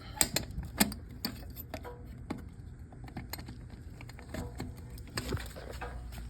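Irregular clicks, knocks and light rattles of an extension cord and its plug being handled and plugged in.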